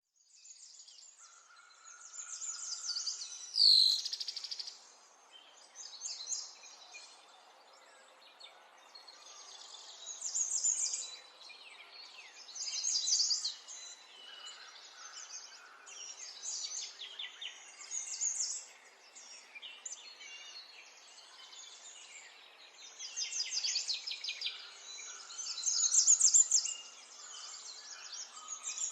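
Birds singing: high chirps and rapid trilled phrases that come and go every few seconds. The loudest sound is one sharp call sweeping down in pitch about four seconds in.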